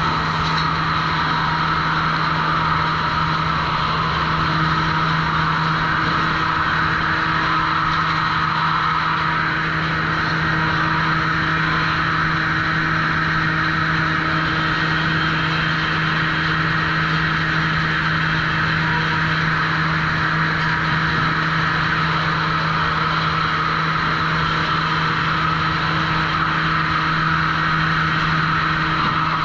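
Sawmill machinery running steadily: a constant low hum with a higher whine above it, and no single cut or impact standing out.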